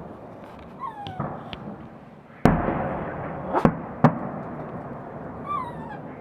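Fireworks shells bursting overhead in a series of sharp bangs. The loudest comes about two and a half seconds in and rolls on in a rumbling echo.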